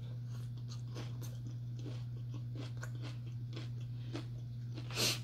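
A taco being bitten and chewed close to the microphone: a run of short, crisp crunches, with one louder crunch about five seconds in, over a steady low electrical hum.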